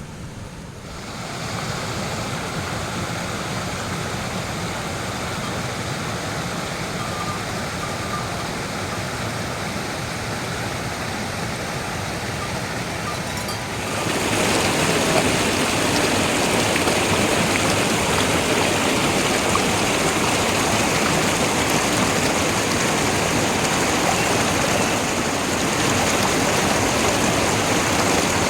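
Steady rushing of running water, swelling in over the first couple of seconds and turning louder and brighter about halfway through.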